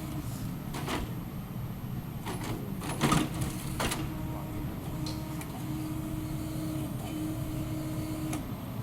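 A 0.25-class excavator-based forestry harvester running, with a steady low engine hum and a tone that breaks off and comes back. Several sharp knocks and clacks are heard, the loudest about three seconds in.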